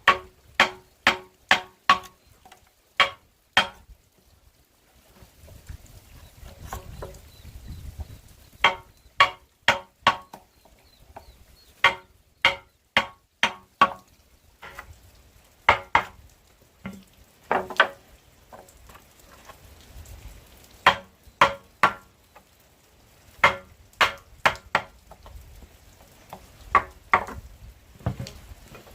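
Repeated blows of a hand tool on wood, in runs of four to six strikes about two a second, each with a short ring, with pauses between the runs.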